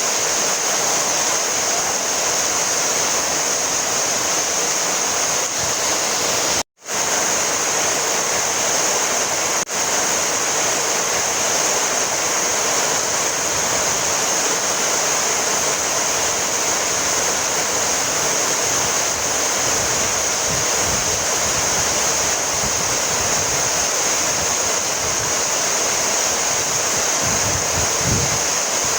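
Heavy rain falling steadily in a dense, even hiss. The sound cuts out for a split second about seven seconds in.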